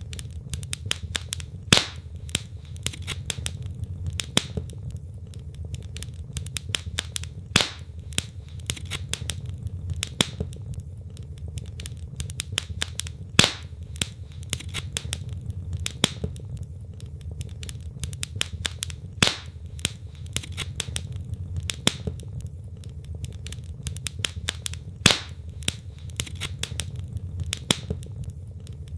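Wood fire in a fireplace: logs crackling with many small snaps over a steady low rumble of the flames, and a louder pop about every six seconds.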